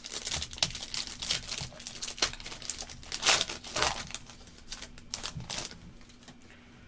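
Trading-card pack wrapper being torn open and crinkled by hand, a dense crackle that is loudest a little past three seconds in and dies away over the last couple of seconds.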